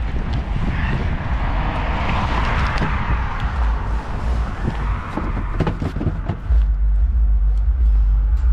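Road vehicle noise: a rushing sound that swells and fades, loudest two to three seconds in, over a low rumble that grows much louder about six and a half seconds in.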